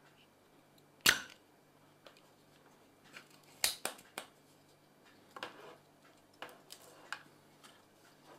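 Irregular sharp clicks and knocks, like small objects being handled on a workbench: a loud one about a second in, a quick cluster a few seconds later, then a few fainter ones, over a faint steady hum.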